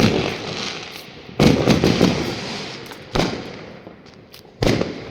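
Fireworks bursting: four loud bangs, at the start, about a second and a half in, about three seconds in and near the end, each followed by a long echoing rumble that dies away.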